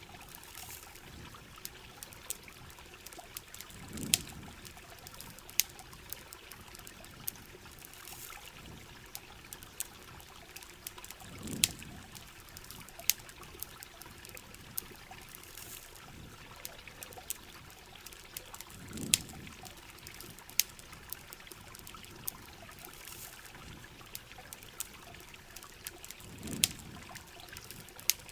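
Steady rush of heavy rain and running water, with sharp pops from a crackling campfire scattered through it. A low swell comes back four times, about every seven and a half seconds.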